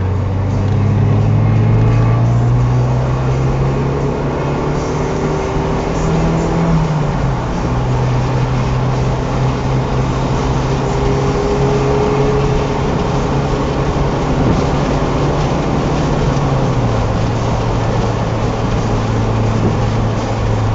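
Car engine and road noise heard from inside a moving car. The engine note rises over the first couple of seconds as it accelerates, then holds at a steady cruise, with a couple of small changes in pitch later on.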